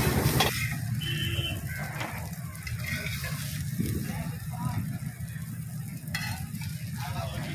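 Prawn fry sizzling in oil on a flat griddle (tawa) as a steel spatula and slotted ladle stir and scrape the pieces, with a sharp metal click about six seconds in, over a steady low rumble.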